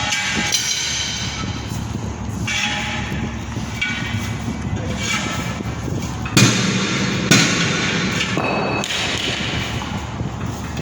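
Truck tire mounting work: knocks and thuds over a steady low rumble, with bursts of hiss. Two loud knocks come about a second apart past the middle.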